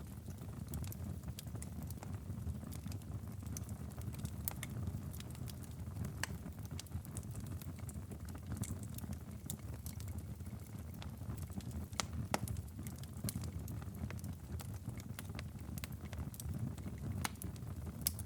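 Wood fire crackling in a fireplace: irregular sharp snaps and pops, a few louder ones, over a steady low rumble of the burning fire.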